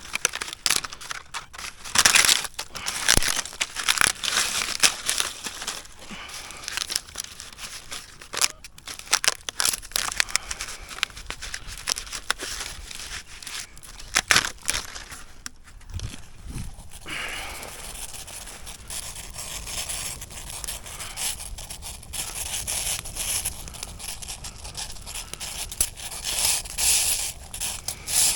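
Wood campfire crackling, with many irregular snaps and crunches, thinning about halfway through into a steadier hiss with fewer snaps.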